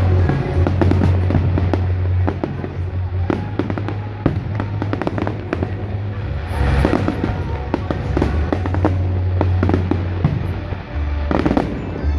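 Fireworks display going off in rapid bangs and crackles, one after another, over music with a heavy bass line.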